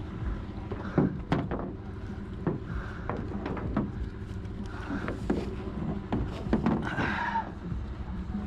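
Irregular clunks and knocks of a small boat being strapped onto a pickup truck, over the steady low hum of the idling truck engine.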